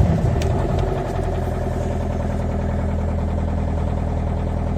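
Mercedes-Benz Vito's OM646 four-cylinder diesel running just after a −28 °C cold start, uneven for about a second, then settling into a steady idle.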